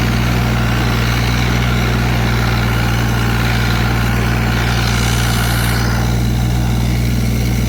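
Zetor 4911 tractor's three-cylinder diesel engine running steadily at a constant speed.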